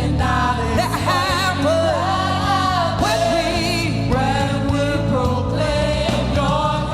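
Worship song sung by a lead vocalist with vibrato over a band accompaniment.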